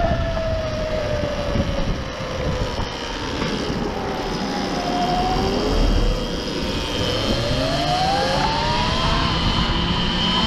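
Electric enduro motorcycle riding along, its motor whine rising and falling in pitch with speed several times, over steady wind and road rumble on the microphone.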